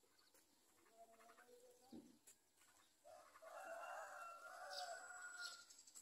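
Faint bird calling: a pitched, fairly low call starts about three seconds in and lasts about two and a half seconds. A few faint chirps come before it, and short high peeps come near its end.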